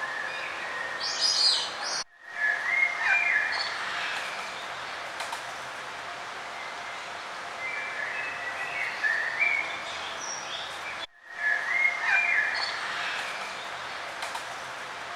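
Songbirds singing in repeated short chirping phrases over a steady outdoor hiss. The sound cuts out briefly about two seconds in and again about eleven seconds in, and the same song phrase follows each cut.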